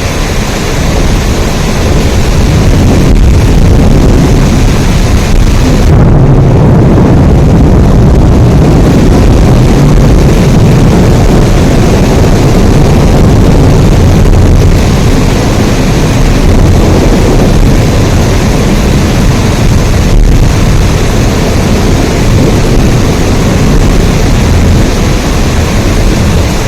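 Steady heavy rain: a dense, continuous rushing noise with a strong low rumble. The high end dulls for a few seconds about six seconds in.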